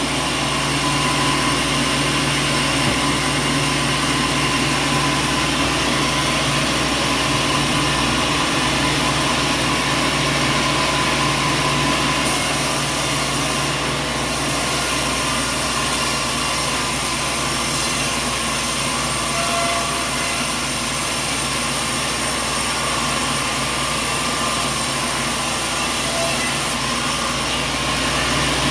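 Machinery running steadily: a continuous mechanical drone with a low hum and a held whine, unchanged throughout.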